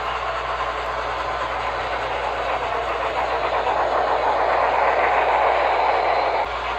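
HO scale model steam locomotive and its cars running on the track, a steady rolling rush with some clicking that grows louder about halfway through as the train comes close, then drops off suddenly near the end.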